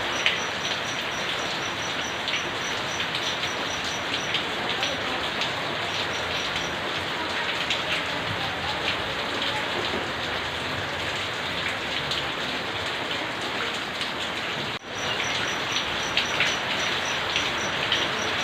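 Steady rain falling, with individual drops and drips ticking sharply on hard surfaces. The sound dips abruptly for a moment about 15 seconds in, then returns.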